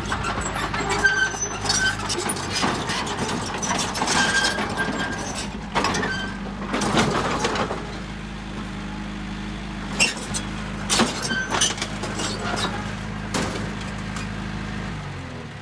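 Heavy diesel machinery running steadily, with intermittent metallic clanks and short high squeals over the engine. The engine sound drops off just before the end.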